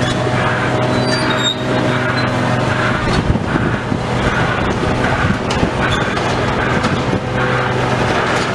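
Heavy demolition machine's engine running steadily, with irregular knocks, crunching and scraping of debris over it.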